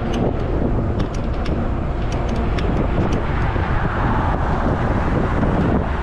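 Wind rushing over the microphone and road noise while riding a fat-tire e-bike at about 17 to 18 mph, with scattered light clicks and rattles from the bike over the first few seconds.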